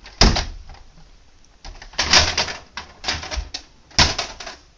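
A toy dump truck being handled and its parts worked, making sharp clicks and knocks with a burst of rattling clacks in the middle.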